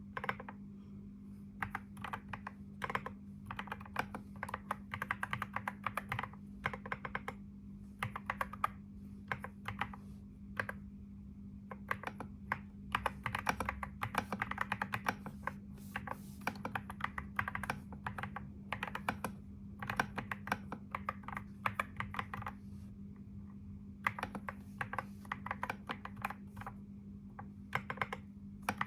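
Computer keyboard typing in quick runs of keystrokes, with short pauses between bursts, over a steady low hum.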